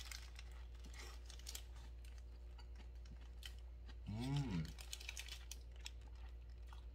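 A person chewing a mouthful of hamburger, a run of small irregular mouth clicks, with a brief hummed "mm" that rises and falls about four seconds in.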